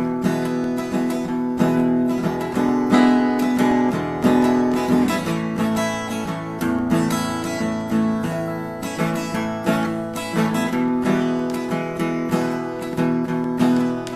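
Solo acoustic guitar strummed in a steady rhythm with no singing: an instrumental break between sung verses.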